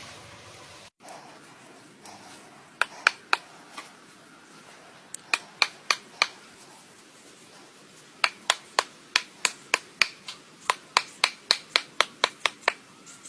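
Sharp knocks in three runs of repeated strikes, about three to four a second: a short run, a second short run, then a long steady run near the end.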